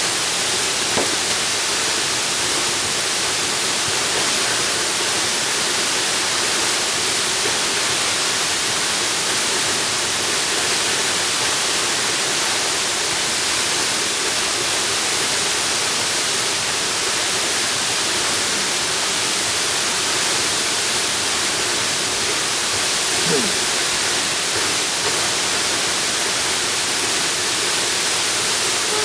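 Jungle waterfall rushing steadily: a dense, even hiss of falling water that holds the same level throughout.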